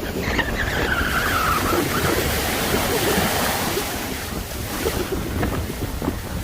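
Heavy surf breaking and rushing up the beach in strong wind, a dense continuous roar of water. In the first two seconds a faint high whine slides downward over about a second and a half.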